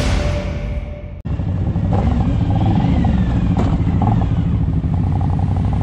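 Intro music fading out, then a motorcycle engine running, its pitch rising and falling briefly about two seconds in, with one sharp click midway.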